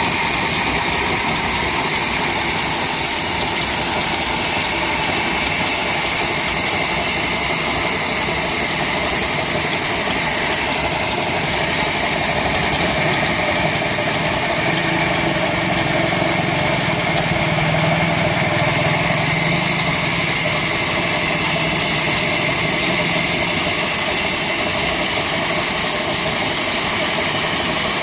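Old stationary 'black engine', rated 26 hp at 300 rpm, running steadily.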